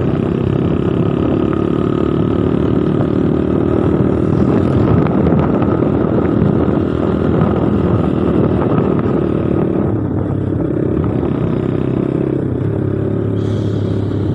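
Motorcycle engine running steadily while being ridden, its pitch shifting a little about ten seconds in and again near the end.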